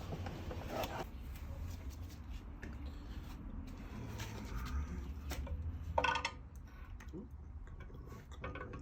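Scattered light metallic clinks and knocks of tools and engine parts being handled over a low steady hum, with one sharper clink that rings briefly about six seconds in.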